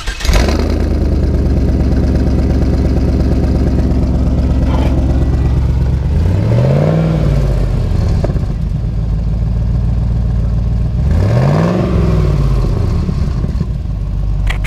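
Z28 Camaro V8 with its muffler cut out, running straight through the open exhaust: it catches right at the start, idles steadily, and is revved twice, each rev rising and falling over about a second and a half.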